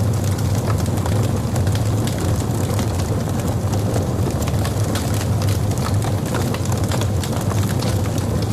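Logs burning in a fireplace: a steady low rumble of the fire with frequent sharp crackles and pops scattered throughout.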